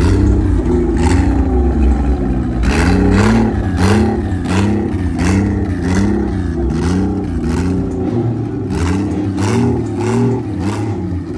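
A car engine revved in quick repeated blips, its pitch rising and falling about one and a half times a second, with sharp cracks, over a steady low rumble.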